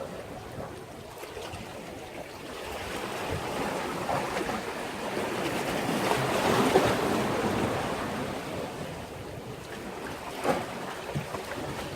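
Sea waves washing in against a breakwater. One wave swells, breaks and drains away over several seconds, loudest around the middle, with a few short splashes near the end.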